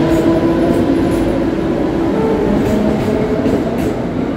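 Western Railway air-conditioned electric suburban train moving along a station platform, with steady rail running noise.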